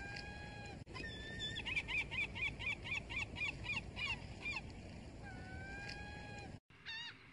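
Gulls calling: a long drawn-out call, then a fast run of short calls at about five a second, then another long call. The audio cuts off sharply near the end into a brief snippet of more short calls. A steady low background rumble runs underneath.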